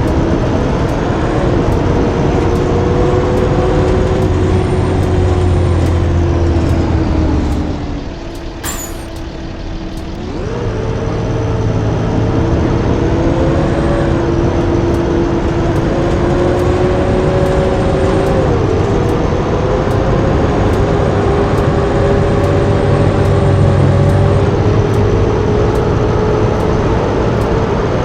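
Blue Bird bus engine running under way, its pitch climbing and then dropping several times as it works through the gears. The engine eases off around 8 s in, with a short sharp burst near 9 s, then pulls again. A faint regular ticking runs underneath.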